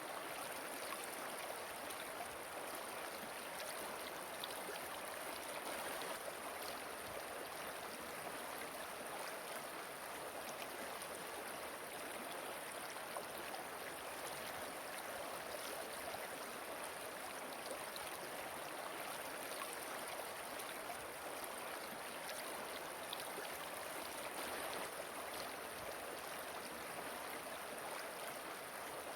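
Steady rush of water from a waterfall and river, an even hiss with small splashing ticks scattered through it.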